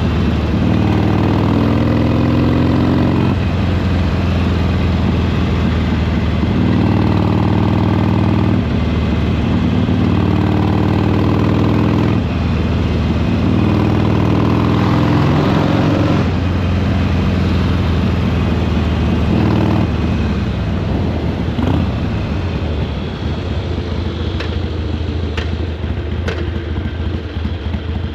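Harley-Davidson Sportster Iron 883's air-cooled 883 cc V-twin pulling under load while riding, in several stretches of a few seconds broken by shifts. It then eases off and runs quieter for the last several seconds, with a few sharp clicks near the end.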